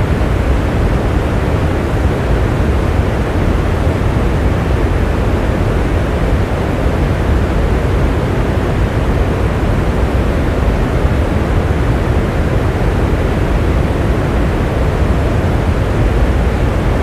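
Steady rain, an even rushing noise with a deep low rumble and no single drops standing out.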